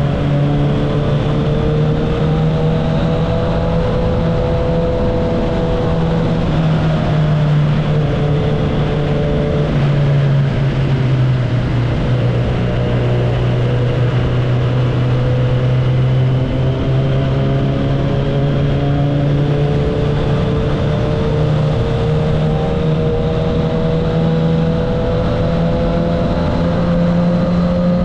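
Kawasaki ZX-10R's inline-four engine and exhaust while riding at a fairly steady pace. The engine note drops slightly about eight to ten seconds in, then rises slowly toward the end.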